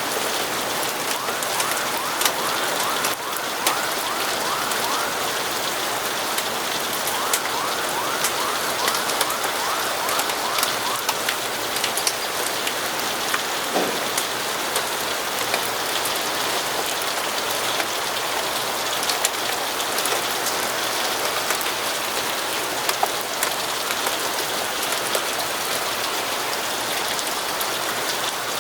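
Steady rain on windows, an even hiss dotted with scattered sharp drip-like clicks. Twice in the first half a faint warbling tone repeats rapidly for a few seconds, and about halfway through a short falling sweep is heard.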